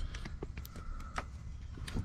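Scattered light clicks and knocks, several a second, with a faint thin tone near the middle.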